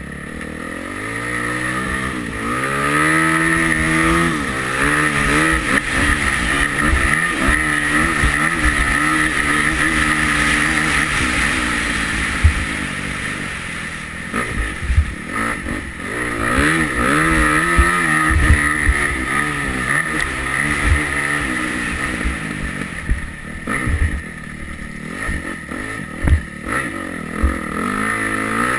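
Yamaha YZ250F four-stroke single-cylinder motocross engine on the track, revving up and falling back again and again as the rider accelerates, shifts and rolls off. Short thumps come through now and then.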